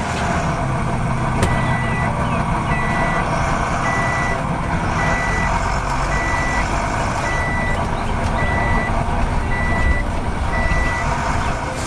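Heavy vehicle's reversing alarm beeping, about nine steady single-pitch beeps roughly one a second, starting about a second and a half in and stopping near the end, over the steady rumble of a running engine.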